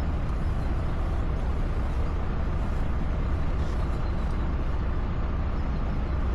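Steady low rumble of a small tour boat's engine running, mixed with rushing water and wind noise.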